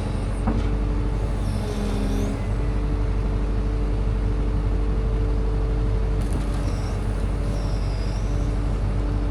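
A motor vehicle's engine running steadily, with a few faint high squeaks over it.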